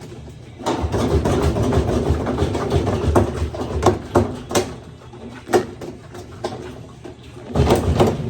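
Amana top-load washer tub knocking and rattling irregularly in its cabinet, with sharp clunks between a low rumble, starting about a second in: the loose tub movement of worn suspension rods.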